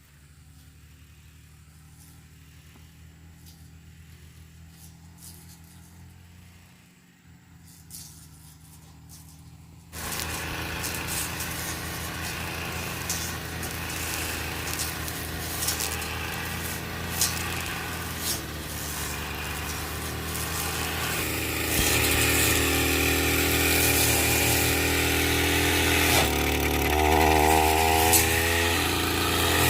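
An engine running: faint at first, then much louder from about a third of the way in, and louder again past the middle.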